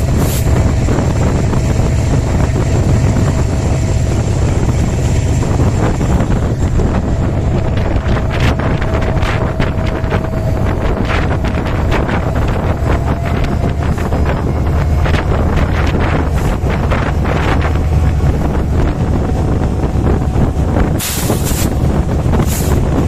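Meter-gauge express train running through at speed: a loud, steady rumble with a run of sharp clacks from the wheels over the rail joints in the middle, and wind buffeting the microphone.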